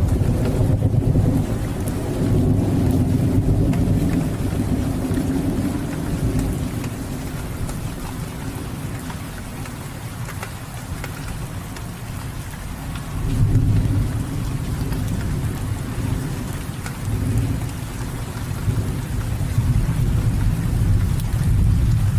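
Steady rain falling, with thunder rumbling underneath in slow swells that build and fade: strongest in the first few seconds, again a little past the middle, and toward the end.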